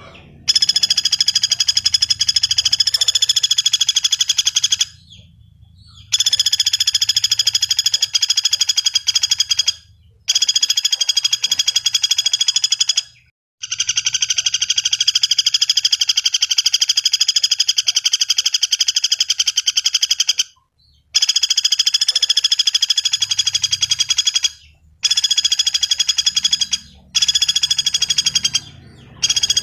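Common flameback woodpecker (pelatuk bawang) calling: a string of fast, rattling trills lasting from one to several seconds each, broken by short pauses.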